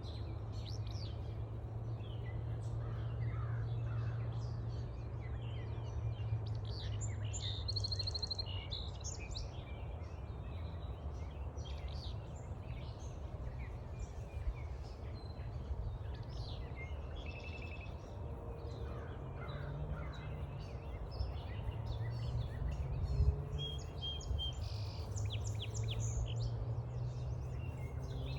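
Mixed chorus of wild birds calling and singing, many short chirps, whistles and trills overlapping, over a steady low rumble.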